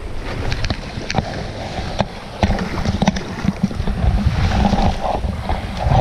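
Kayak being paddled: water splashing with scattered sharp knocks, over a low wind rumble on the microphone.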